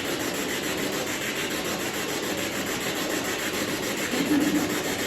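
Steady hiss of radio static with a fast, even chopping, typical of a spirit box sweeping through stations.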